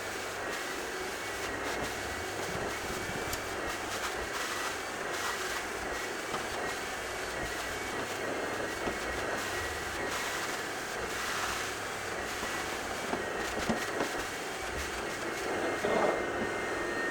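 Carpet-cleaning machine running steadily on office carpet: a constant motor drone with a thin high whine, and a few light knocks. It cuts off suddenly at the end.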